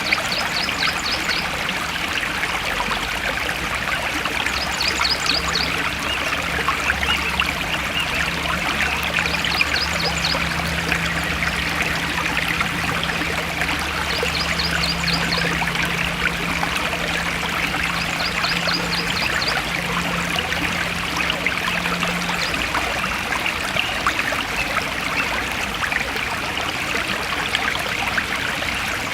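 Stream flowing steadily. A short, high, rapid trill repeats about every four to five seconds.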